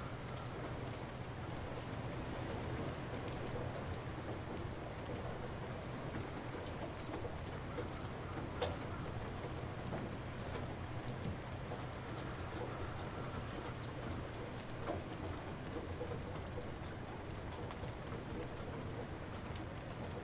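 Light rain falling steadily, with individual drops pattering and one louder drop hitting about eight seconds in.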